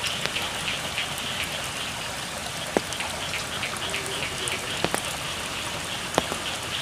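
Steady rain pattering on a rice field, with heavy single drops striking close by every second or two. A chorus of frogs pulses steadily underneath.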